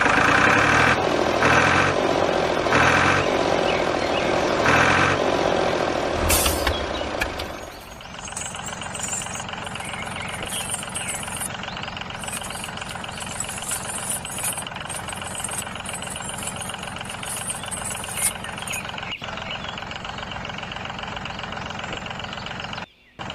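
Mini tractor's engine-like running sound. For the first several seconds it is loud and pulses in an even rhythm of roughly one to one and a half beats a second, then it settles into a quieter, steady run.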